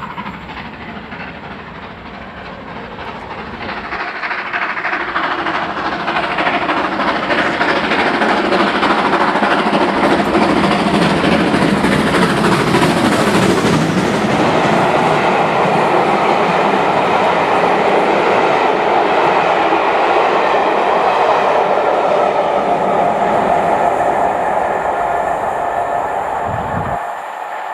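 A train passing close by: the rail noise builds over the first several seconds, stays loud and steady for about twenty seconds, then drops near the end.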